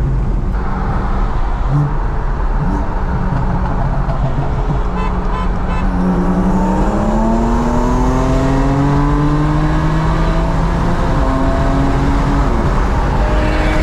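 Car engine heard from inside the cabin under hard acceleration: a steady drone, then from about six seconds in the engine note climbs for about four seconds before dropping back.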